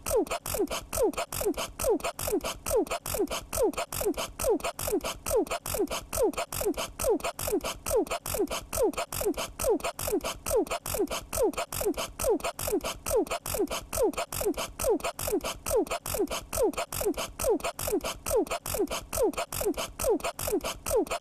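A dog sneezing in a long, even run of short snorts, about three a second, each falling in pitch.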